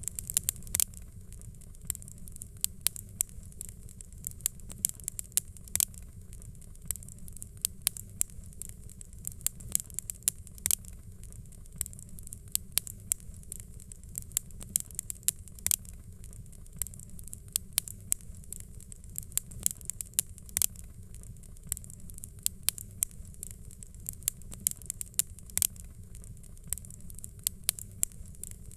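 Fireplace fire crackling: frequent irregular sharp pops and snaps over a low steady rumble.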